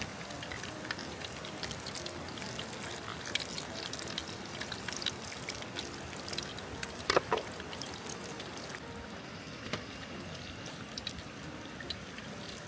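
Food sizzling on a hot pan or grill, a steady hiss with many small crackling pops, and one louder knock about seven seconds in.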